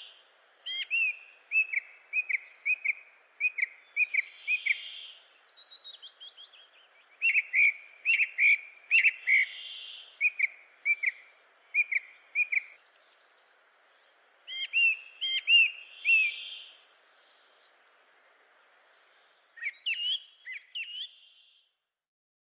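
A songbird singing phrases of short, sharp chirps at about two a second, with softer higher notes between them and a couple of pauses, over a faint steady background hiss.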